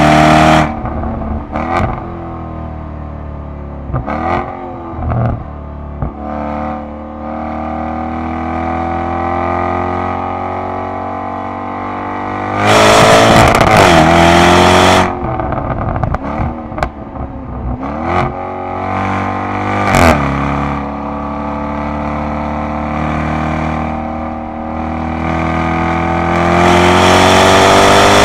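Jaguar F-Type SVR's supercharged 5.0-litre V8 engine and exhaust heard from inside the cabin on track, its pitch rising under acceleration and dropping off between pulls. Easing off brings short sharp cracks and blips from the exhaust, and the engine pulls hard near the end.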